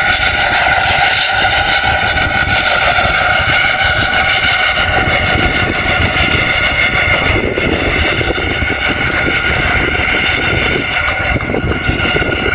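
Snowdon Mountain Railway rack locomotive and its carriage passing, the engine running with a steady droning whine over a low rumble.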